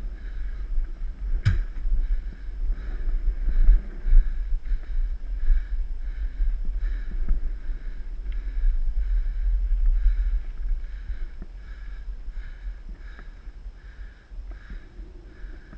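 Ride noise from a mountain bike on a dirt trail: wind buffets the microphone with a heavy low rumble, over a regular soft pulsing about every two-thirds of a second. There is a single sharp click about a second and a half in.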